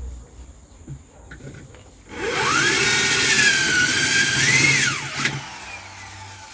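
A handheld electric power tool runs in one burst of about three seconds: the motor whines up to speed, sags a little as if under load, picks up again, then winds down when released.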